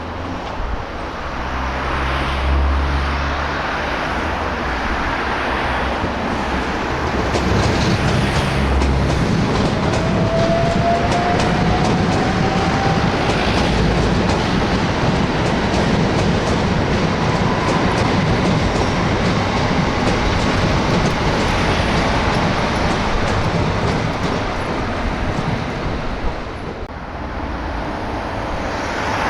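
Train running through the station with wheels clacking over rail joints, and a thin whine that rises in pitch through the middle. The sound dies down a few seconds before the end.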